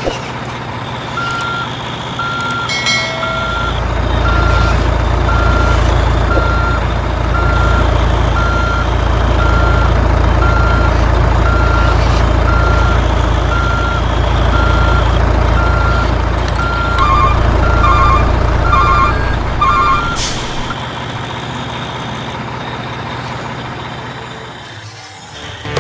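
Truck engine rumbling under a reversing alarm that beeps about once a second; for the last few beeps a second, quicker double-beep tone joins in. About twenty seconds in the engine drops away with a short hiss, and a quieter background runs on.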